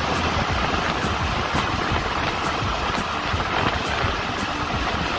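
Passenger train running at speed, heard from aboard: a steady rumble with the rush of wind and wheels on the track.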